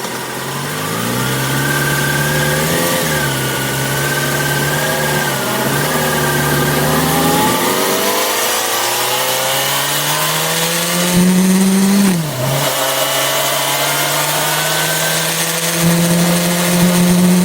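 Yamaha FZ6R's 600 cc inline-four engine pulling under throttle, its pitch climbing slowly, dropping sharply about twelve seconds in at a gear change, then rising and holding high near the end. Wind noise is heard throughout.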